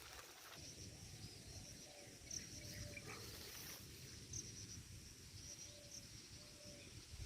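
Near silence: faint rural outdoor background with soft high chirps over a low rumble.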